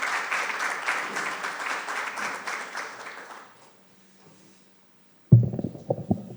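Audience applauding, the clapping dying away after about three and a half seconds. About five seconds in, a burst of loud low thumps and knocks follows, from a microphone being handled.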